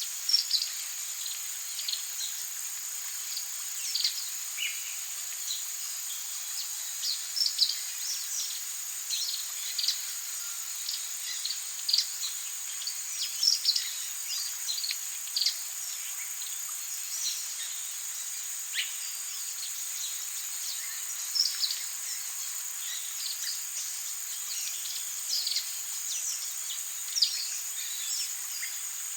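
Rainforest ambience: a steady, high-pitched insect drone with many short, sharp bird chirps scattered throughout.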